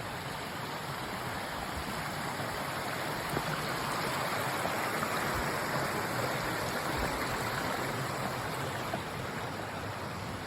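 Creek water rushing steadily over rocks, swelling a little louder through the middle.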